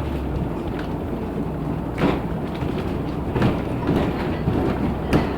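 Cabin noise of a LiAZ 6213.65 articulated city bus under way: a steady low hum gives way to a rougher rumble about half a second in. Two sharp knocks or rattles come, one about two seconds in and one near the end.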